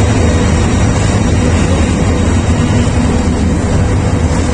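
Titas Commuter passenger train running slowly along the platform as it pulls out of the station, heard from beside the coaches: a loud, steady low rumble from the train.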